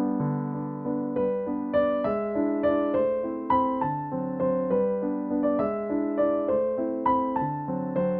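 Background music: a slow piano melody with sustained chords, notes struck and decaying a few times a second.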